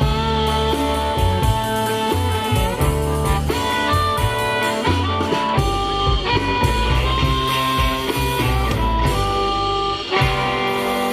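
Live blues band playing an instrumental passage: a blues harmonica holds long notes over electric guitar, bass guitar and drum kit.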